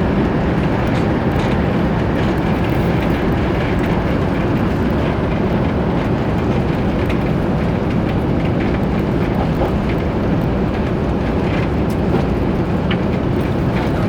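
Cabin noise of an Airbus A350-1000 under takeoff power: the steady, loud rush of its Rolls-Royce Trent XWB engines and airflow heard from inside the cabin, with faint rattles from the cabin fittings.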